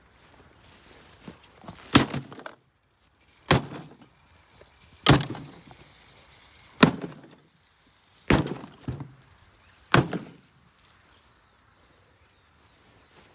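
Six heavy blows on a Kings portable fridge, one about every second and a half, each a loud impact followed by a brief rattle of breaking parts, as the fridge is smashed up.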